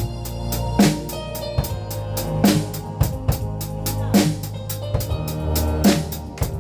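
A drum kit played in a steady beat, with hi-hat strokes and a stronger kick-and-snare accent recurring about every 1.7 seconds, over a backing track with bass and sustained keyboard notes.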